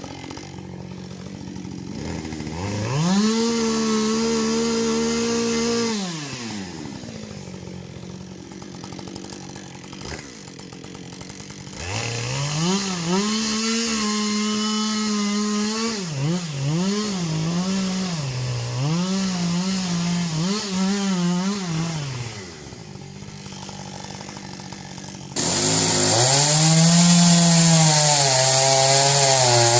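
Chainsaw engines idling and revving: one is revved up and held for a few seconds and drops back to idle, later gives a run of quick revs up and down, and near the end a louder saw comes in abruptly.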